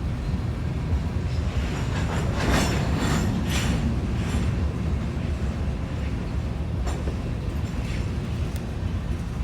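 CSX hopper freight train rolling past, a steady low rumble of cars on the rails that grows briefly louder and hissier about two to four seconds in, with a single sharp click near the end.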